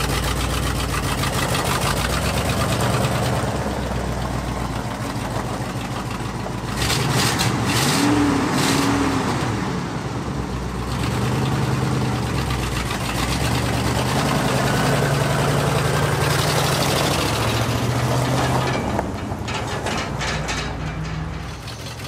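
The 1974 Ford F-350's 460 V8 running as the truck is driven away, its revs rising and falling about eight seconds in. The engine is in poor health; the owner plans a head gasket for it.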